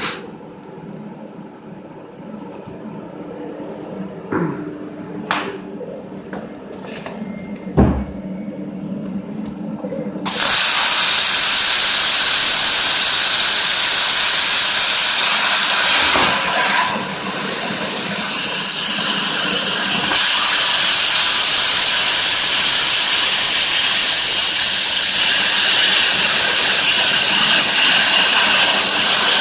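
CNC plasma cutter: a low hum with a few clicks, then, about a third of the way in, the plasma arc strikes with a sudden loud hiss that runs steadily as the torch cuts a steel washer, dipping briefly past the middle.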